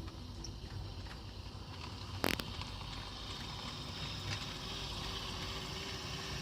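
HO-scale model Shay locomotive and freight train running on the track: a steady rolling rumble, with one sharp click about two seconds in and a faint steady hum joining after about three seconds.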